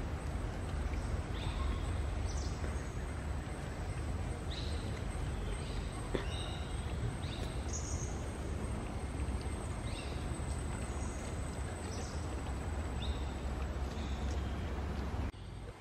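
Birds chirping, short high calls coming about once a second, over a steady low rumble.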